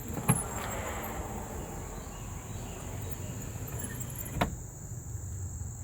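1990 Jeep Grand Wagoneer power window motor raising the glass: a click as it starts, then about four seconds of steady running, ending in a knock as the glass seats at the top.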